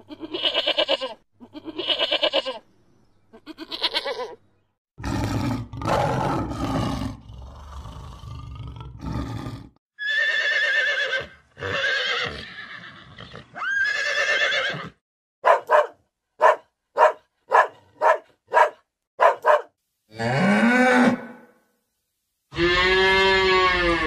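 A succession of farm animal calls: sheep bleating in short repeated calls, then a pony's calls followed by a run of seven quick sharp calls, and a cow mooing twice near the end with long calls that rise and fall in pitch.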